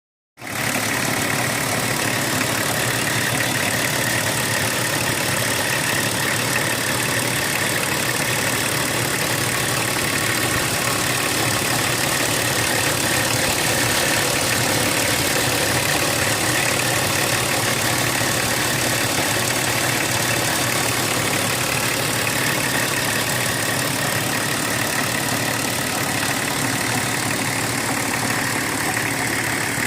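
BMW 325tds E36's 2.5-litre straight-six turbodiesel idling steadily, after new seals were fitted to the actuator of its Bosch injection pump.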